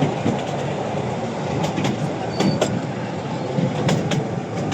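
Artouste narrow-gauge tourist train running on its track: a steady rumble of wheels and cars with irregular sharp clicks as the wheels pass over the rail joints.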